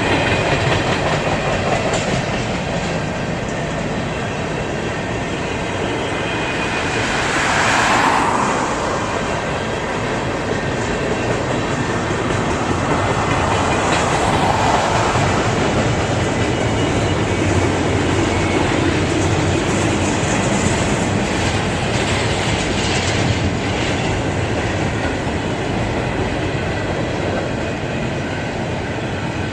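A long freight train's cars rolling past close by, a steady clatter of wheels over the rails, swelling briefly about eight seconds in.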